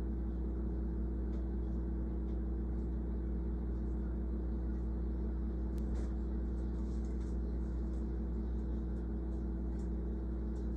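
Steady low mechanical hum, with faint short high bird chirps now and then.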